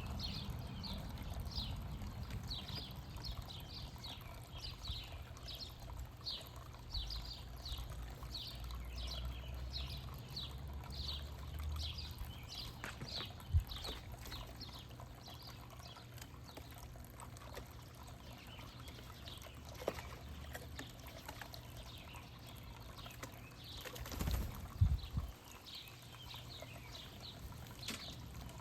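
A songbird singing a long run of short, quickly repeated downslurred notes, fading for a while in the middle and resuming near the end, over a low outdoor rumble. A few dull thumps come about halfway through and again later.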